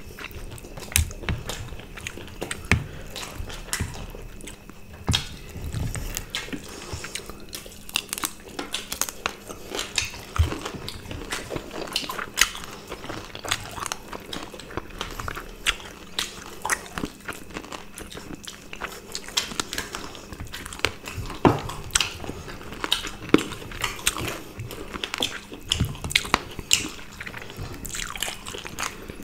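Close-miked eating sounds of two people eating rice and curry by hand: chewing and lip smacks, with many irregular, sharp, wet clicks.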